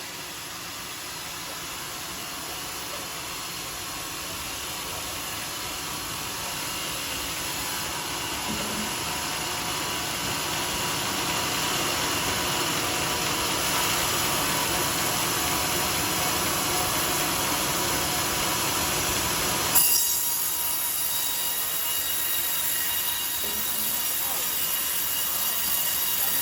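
Homemade sawmill's circular saw blade running through a coconut-palm log, a steady noisy whine that grows louder over the first dozen seconds. About twenty seconds in the sound changes suddenly and turns brighter and more hissing.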